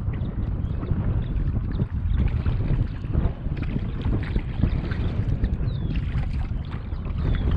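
Wind rumbling on the microphone, with small irregular splashes and drips of water around a paddled kayak.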